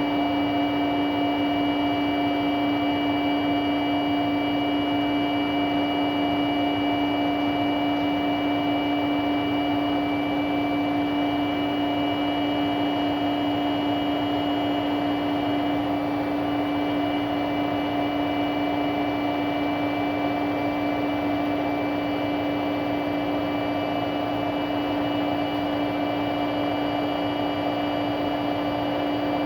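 Arctic washing machine running in service mode during a sudslock, giving a steady mechanical drone with a strong low hum and fainter high whines; these are the bad noises it makes in this state.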